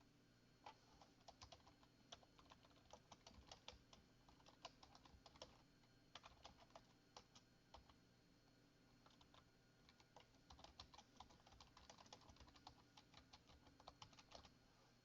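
Faint computer keyboard typing in three runs of quick key clicks, with short pauses between them.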